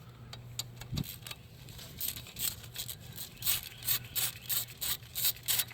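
Hand ratchet clicking in short repeated strokes, about two to three a second, as a 10 mm bolt is worked loose.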